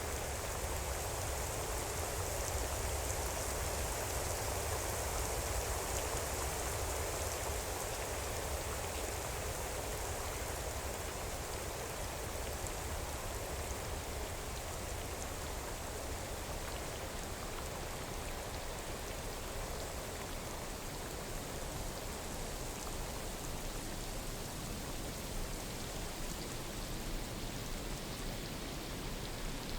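Steady rain falling on foliage, a dense even patter without breaks.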